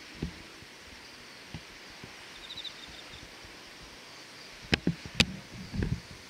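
Quiet outdoor ambience with a faint steady hiss; a short, rapid chirping, like an insect or small bird, comes about halfway through. Near the end come two sharp clicks, the loudest sounds, followed by a few low bumps.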